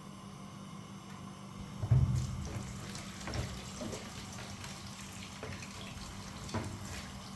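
Water running, as from a tap into a sink, starting after a low thump about two seconds in, with scattered light knocks over a steady low hum.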